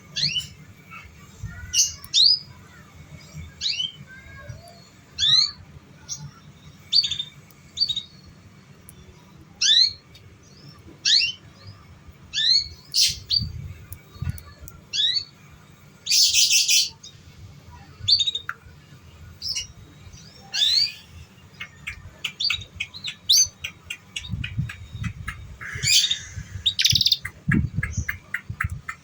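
Domestic canary singing: single rising chirp notes repeated about once a second, a harsh buzzy note about 16 seconds in, then a fast rolling trill from about 20 seconds, the kind of song played as a lure to teach young canaries.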